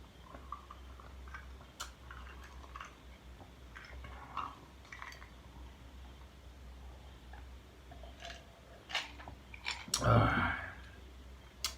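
Close-up sounds of a man eating and drinking Coke: small mouth clicks, chewing and sips, with a louder breathy sound about ten seconds in.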